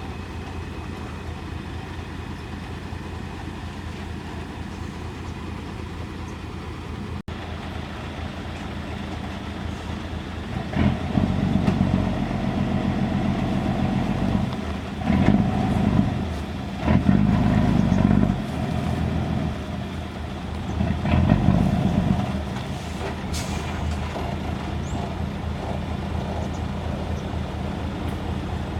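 Diesel engine of a JCB 3DX backhoe loader running steadily, then revving up in four surges in the middle of the stretch before settling back to its steady run.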